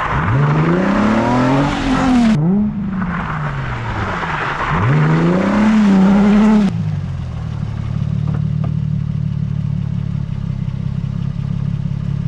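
Nissan 350Z's V6 revving up twice under hard throttle over a loud hiss of tyres on wet pavement, each sweep climbing and then falling in pitch. About seven seconds in the hiss cuts off and the engine settles to a steady idle.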